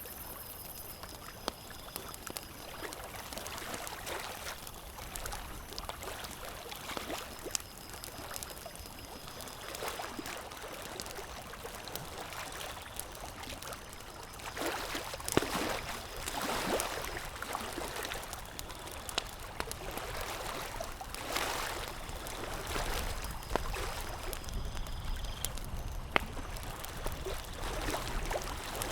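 Campfire crackling: scattered sharp pops and snaps over a steady rushing hiss that swells a little about halfway through and again later.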